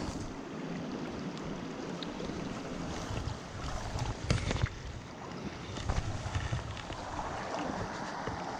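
Steady rush of a small mountain stream, with wind buffeting the microphone, and a few sharp knocks about four and six seconds in.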